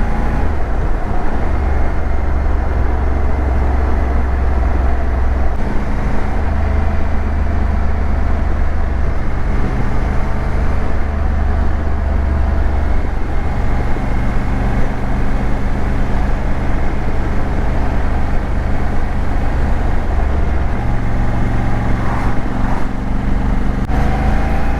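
Honda motorcycle engine running while riding, its note shifting a few times, under a steady rush of wind and road noise on the helmet or bike-mounted action camera.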